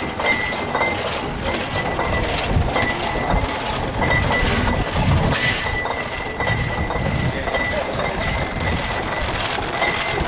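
Engine of an antique IHC 20-horsepower friction-drive tractor running with a steady, regular beat.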